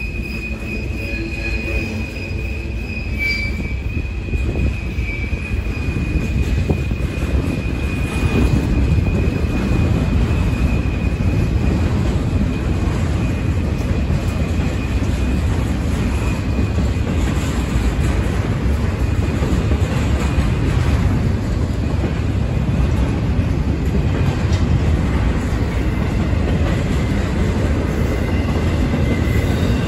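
Freight cars of a CSX intermodal train rolling past at speed, a steady low rumble of wheels on rail. A high, steady squeal from the train's running gear is strong in the first several seconds and fades out past the middle.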